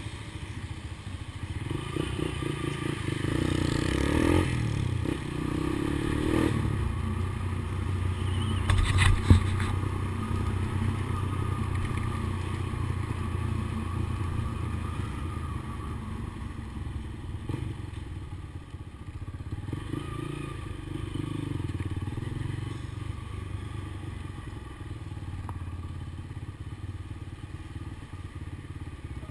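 Honda CBX 200 Strada motorcycle's single-cylinder engine running through a Tornado-style exhaust muffler, revved up a few times. There is one sharp knock about nine seconds in.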